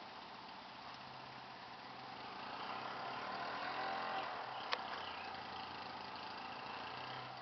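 Motor vehicle engine running, swelling louder toward the middle and easing off, over a steady low hum. One sharp click comes a little before the five-second mark.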